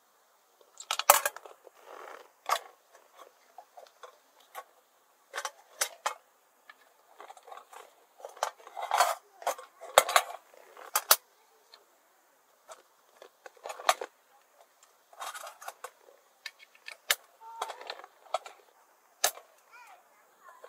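Camping gear being handled by hand: irregular small clinks, clicks and rustles, with short pauses between them.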